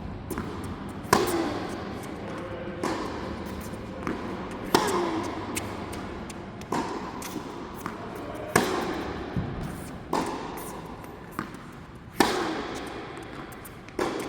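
Tennis balls struck by rackets in a practice rally, a sharp hit every second or two, each with a brief ringing tail.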